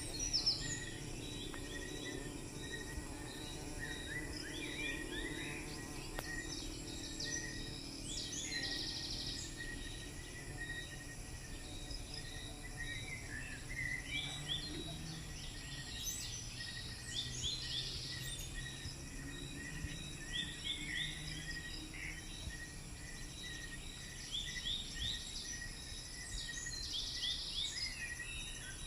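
Insects calling in the background: steady high trills with repeated bursts of rapid chirping, over a faint low hum.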